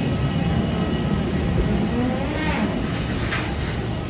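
Steady low rumble of a vehicle in motion heard from inside, with a few faint brief squeals about two and a half to three and a half seconds in.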